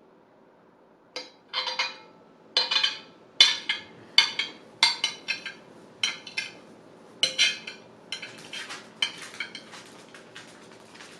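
Cutlery scraping and clinking against a plate, about ten sharp strokes well under a second apart starting about a second in, then quicker, fainter scrapes near the end.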